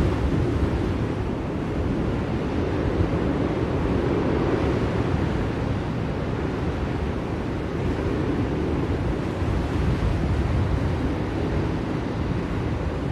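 Blizzard wind blowing steadily, a low rushing noise that swells and eases a little.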